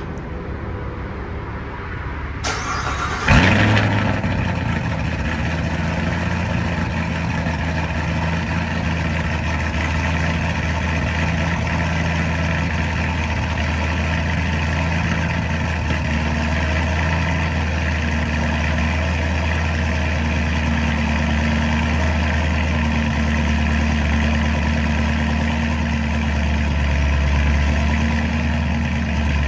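Hennessey-tuned C7 Corvette ZR1's supercharged 6.2-litre V8 on a cold start: a brief crank, then it fires with a sharp, loud flare about three seconds in and settles into a steady idle.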